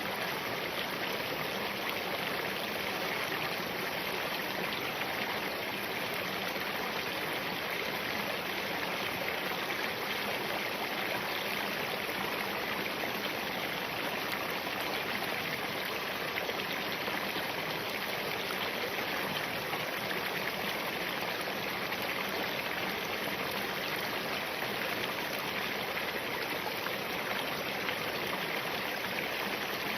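Spring-fed mountain stream running over rocks, a steady, even babbling of water.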